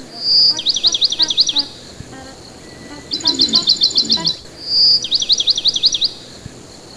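Pet parakeet chirping loudly in repeated phrases. Each begins with a short high whistle and runs into a quick string of falling chirps, and a faster run of chirps comes between them.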